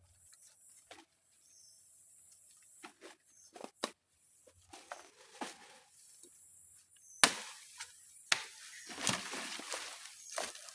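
Wood being chopped or struck with a blade: a handful of sharp, uneven chops, the loudest ones about seven to nine seconds in, with rustling of leaves and branches between.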